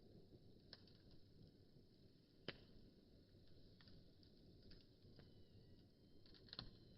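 Wood fire burning faintly: a soft low rumble of flames with a few sharp crackles and pops from the burning wood, the clearest about two and a half seconds in.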